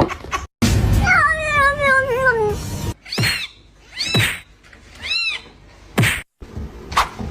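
A cat's long, wavering meow that falls in pitch, followed by three short mews that rise and fall, about a second apart. A few short thuds come between them.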